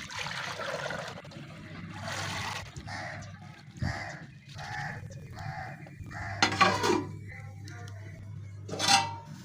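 Birds calling, with crows cawing in a run of short, harsh calls about half a second apart, then two longer, louder calls near the end. A low, steady hum runs under the second half.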